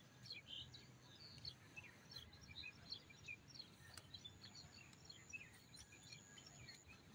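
Faint chirping of small birds: many short, separate calls scattered throughout, over a low background hum.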